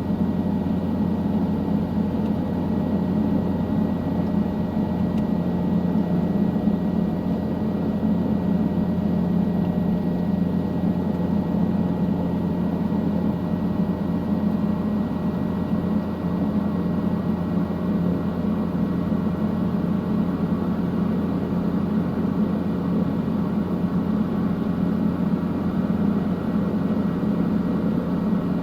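Helicopter in steady flight, its engine and rotors making an even low drone.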